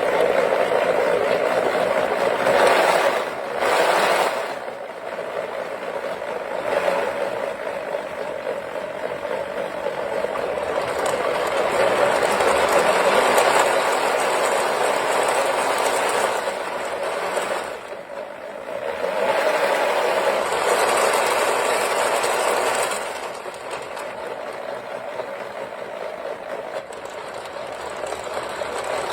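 Wooden model V8 engine mechanism driven by a cordless-drill electric motor, running with a continuous whirring clatter of wooden parts. Its loudness swells and dips several times, with clear drops about four seconds in, near eighteen seconds and from about twenty-three seconds.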